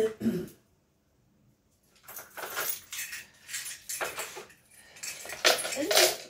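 A bunch of keys jangling and scraping over a hard surface in short, repeated rattles. A brief knock at the very start is followed by a second or so of quiet before the rattling begins.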